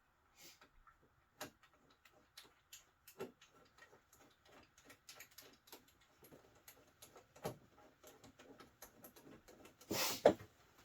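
Faint scattered clicks and taps of a rear window panel being worked into its slots on a Can-Am Maverick Trail, coming more often as it goes, with a louder knock and a brief rattle near the end as one side goes in.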